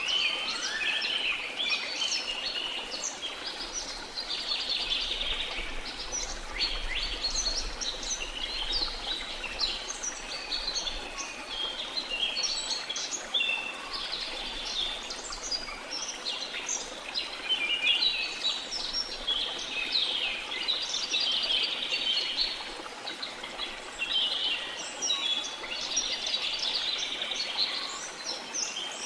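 Dense chorus of many small birds chirping and trilling without pause, over a steady hiss of running water.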